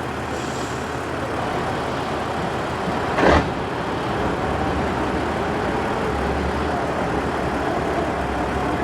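Competition truck engine running steadily, a dense rumble, with one short loud burst about three seconds in.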